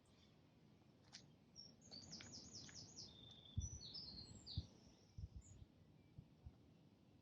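A small songbird singing faintly: a short song of high, thin notes with a quick run of repeated slurred notes, starting about a second and a half in and ending around five and a half seconds. A few soft, low thumps fall under and after it.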